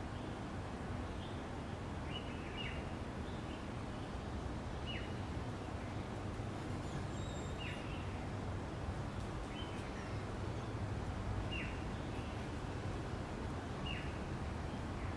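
A bird repeating a short chirp that drops in pitch, about once every two seconds, over a steady hum of outdoor background noise.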